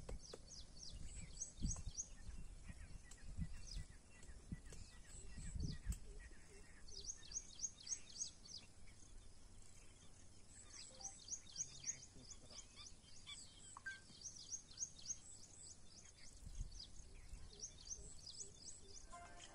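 A bird singing short phrases of quick, high descending chirps, a phrase every couple of seconds. A few low thumps sound in the first six seconds.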